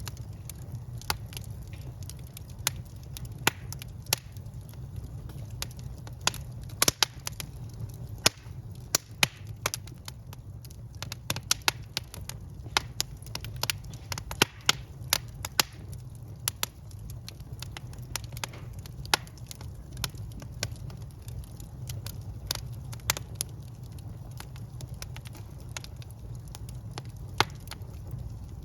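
Wood fire burning in a fireplace: irregular sharp crackles and pops, thickest around the middle, over a steady low rumble of the flames.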